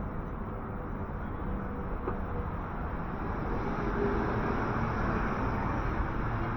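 City street ambience: a steady hiss of road traffic, swelling a little from about halfway through as vehicles pass.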